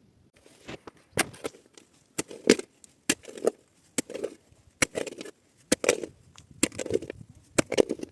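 Regular knocks, about one a second, each a sharp click with a duller thud just after.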